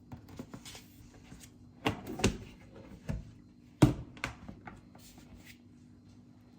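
A string of irregular knocks and clicks, the loudest about two and four seconds in, over a steady low hum.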